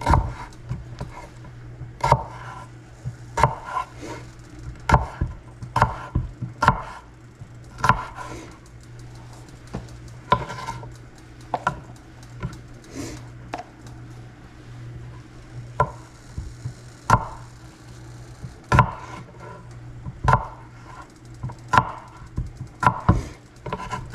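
Sharp kitchen knife slicing raw potatoes on a cutting board: irregular knocks of the blade striking the board, roughly one or two a second, with short pauses between runs.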